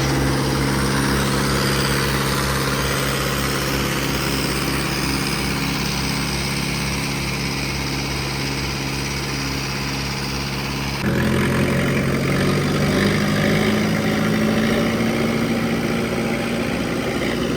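Tractor diesel engine running steadily. Its note changes abruptly about eleven seconds in, then climbs slightly.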